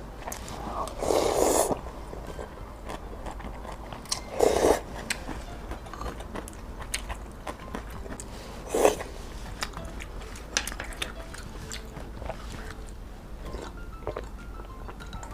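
Close-miked eating of luosifen rice noodles: soft chewing and mouth clicks, broken by three louder slurps, about one and a half, four and a half and nine seconds in.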